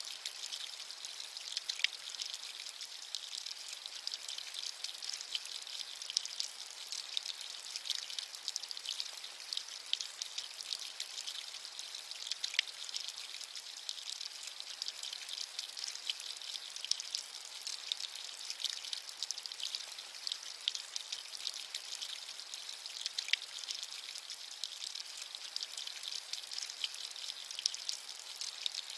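Steady rain falling, a dense high pattering hiss with a few louder individual drops.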